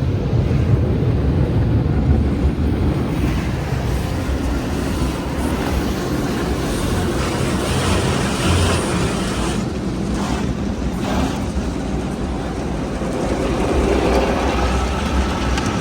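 Automatic tunnel car wash machinery running, heard from inside the car: a steady rumble with water and brush noise, growing hissier for a few seconds in the middle.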